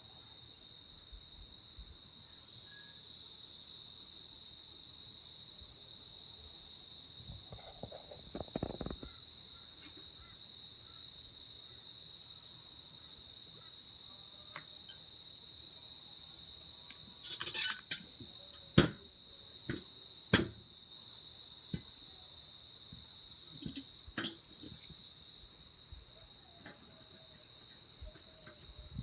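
Evening insect chorus, a steady high-pitched trill, with a wood campfire giving a few sharp pops and crackles about two-thirds of the way in.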